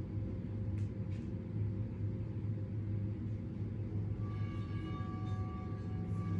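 A steady low rumbling drone. About four seconds in, a sustained ringing tone with several overtones comes in over it.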